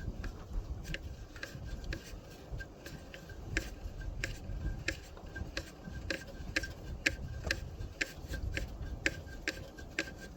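Sharp metal clicks from a wrench working a loosened nut off a bolt, irregular ticks about two or three a second.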